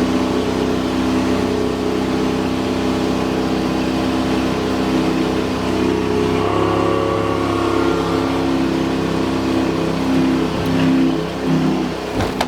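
MerCruiser 496 Mag big-block V8 running with its Corsa Captain's Call exhaust open, a loud, steady engine note. The pitch shifts about halfway through and falls near the end as the revs change.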